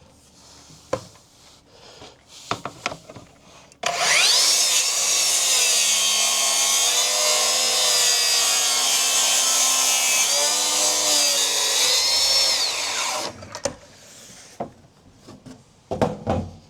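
HiKOKI 36V cordless track saw starting with a rising whine about four seconds in, ripping along a wooden board for about nine seconds, then winding down. A few knocks and clicks of handling the saw come before and after the cut.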